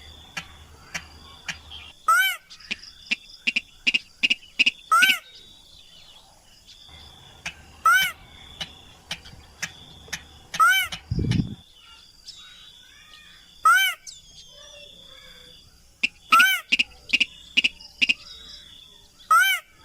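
Rail lure-call recording: a loud arched call rises and falls, repeated about every three seconds, with runs of short rapid notes between calls and a steady high insect-like tone behind them. A single low thud comes about halfway through.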